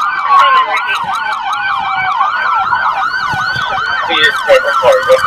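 Police car sirens on a fast yelp, rising and falling about four times a second. A second siren's slower falling wail is layered over it at times.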